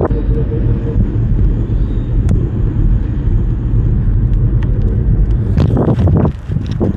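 Steady low rumble of riding noise from a moving e-bike, mostly wind buffeting the microphone with tyre and road noise, dropping off sharply about six seconds in.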